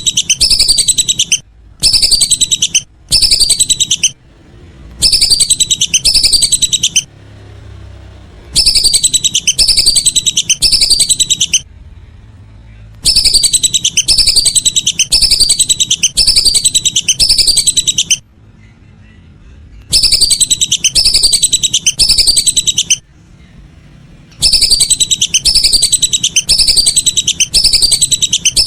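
Lesser whistling ducks (belibis) giving loud, high whistling calls. The calls come in runs of several sharp falling whistles, with short pauses between the runs.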